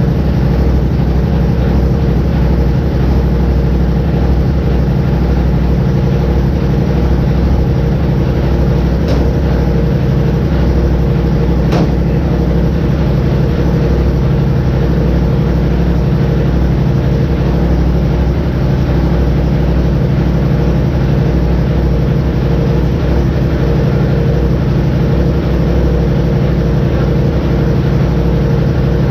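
2019 Polaris RZR XP Turbo's turbocharged twin-cylinder engine idling steadily just after a cold start in sub-freezing weather.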